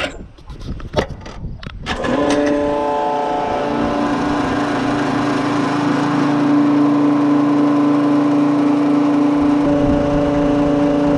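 A few clicks and knocks, then about two seconds in a diesel transfer pump starts and runs with a steady, even hum while it fills a tractor's fuel tank.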